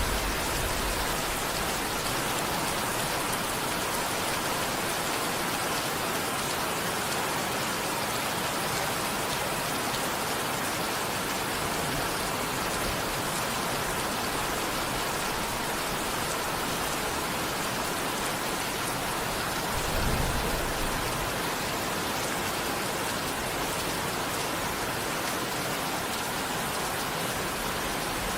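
Steady heavy rain falling on a surface, an even hiss of drops, with a brief low rumble about 20 seconds in.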